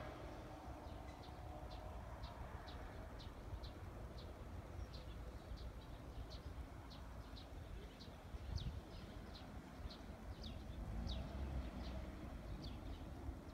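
A bird calling with a short, high chirp repeated about twice a second, over a low steady rumble.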